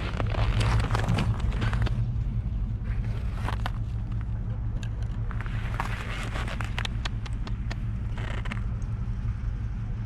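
Outdoor street ambience: a steady low rumble with scattered short crackling crunches, busiest near the start and again past the middle.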